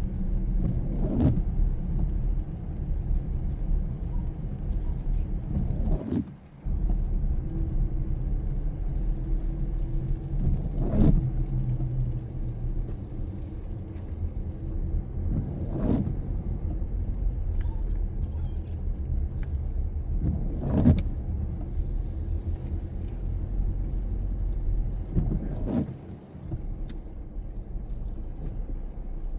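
A car drives on a rain-wet road with a steady low rumble from the road and engine. A short swish comes at a regular interval of about every five seconds, typical of windshield wipers on an intermittent setting.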